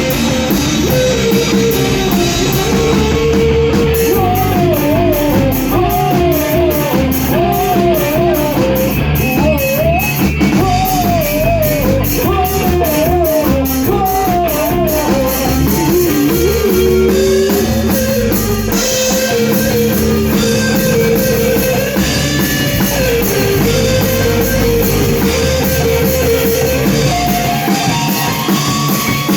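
A rock band playing a song together: drum kit, guitars and bass. Steady hi-hat strokes come in a few seconds in, and a lead melody wavers and bends in pitch over the band for about twelve seconds.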